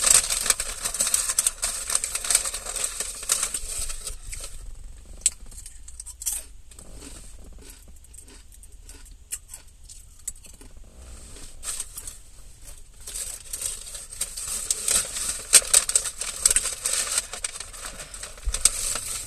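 Close-up chewing of a crunchy romaine-and-kale salad, with wet crunching and crackling. It eases to scattered small clicks for several seconds in the middle, then the crunching picks up again.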